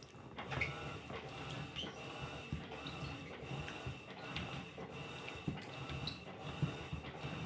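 Electrolux LTC15 top-loading washing machine running its wash cycle with a load of sneakers. Its Welling motor gives a steady high whine over a churning, uneven low rumble as the machine agitates.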